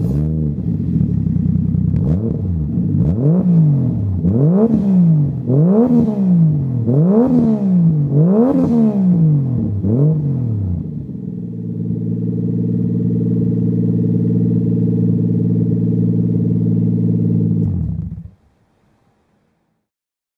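Toyota JZX100 straight-six exhaust through an aftermarket straight-through 100 mm bullet-type muffler on a straight front pipe. It idles, is blipped in about six quick revs roughly every second and a half, then is held at a steady speed before it is switched off and cuts out abruptly near the end.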